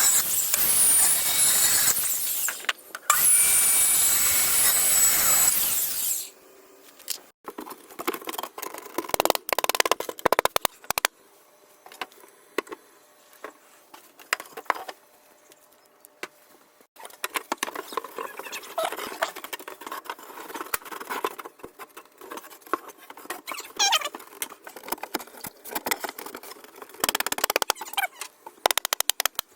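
A power tool runs with a high, wavering whine for about six seconds, then stops. After that come scattered clicks, knocks and scraping sounds of hand work, with quiet gaps between them.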